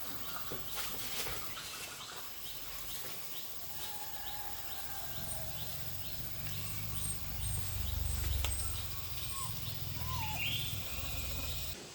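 Birds chirping, with a high call ticking over and over at about two or three a second and a few short whistled glides. A low rumble joins about halfway through and lasts almost to the end.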